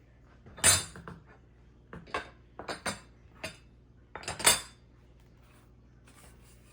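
Hard ceiling-fan parts knocking and clinking together as they are handled, in a run of short clatters; the loudest come about a second in and again about four and a half seconds in.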